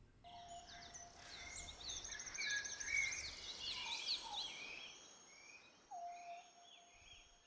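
Several birds singing and chirping, with quick high trills and a repeated lower whistled note, starting suddenly just after the start and loudest about three seconds in.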